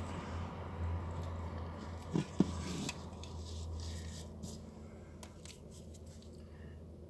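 Hands handling craft materials at the bird cage, with light rustling and small clicks and two sharper knocks about two and a half seconds in, over a steady low hum that stops near the end.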